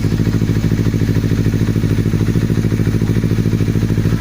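Honda CBR250RR motorcycle engine idling steadily through red aftermarket mufflers, with an even, rapid exhaust pulse and no revving.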